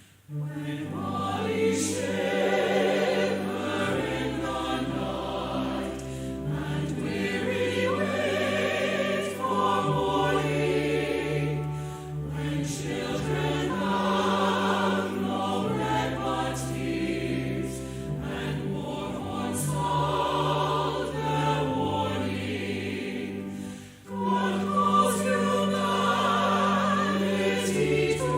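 Choir singing with accompaniment, in held chords and phrases of a few seconds each, with a brief break about three quarters of the way through.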